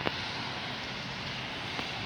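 Steady rain hiss during a thunderstorm, with a sharp tick just at the start and a fainter one near the end.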